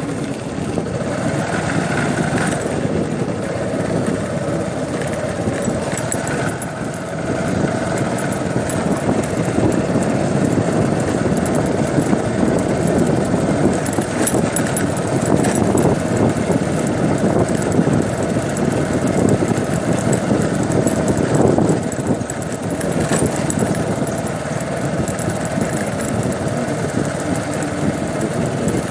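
An engine running steadily, with a low, even noise throughout.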